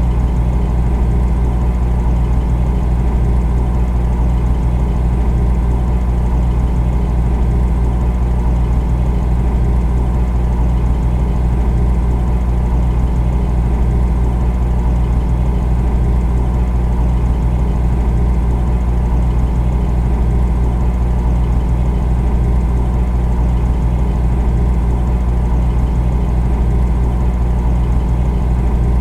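Refrigerator running with a steady, unchanging low hum, a few steady tones over a deep drone.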